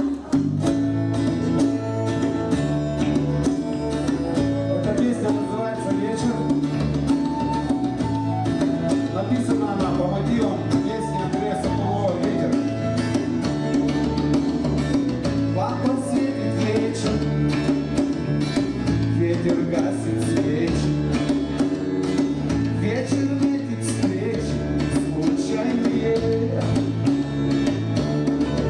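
A band playing a rock song: guitars over a bass line that steps through the chords, with a melody line on top.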